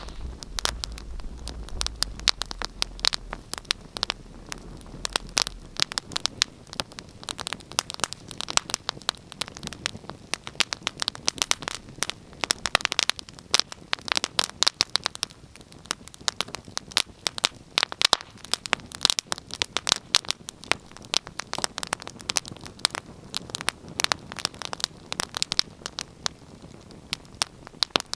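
Wood fire crackling in a fireplace: a dense, irregular run of sharp pops and snaps over a soft hiss, steady throughout.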